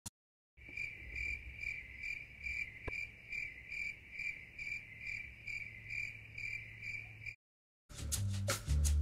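Crickets chirping, a steady run of about two chirps a second that cuts off abruptly near the end.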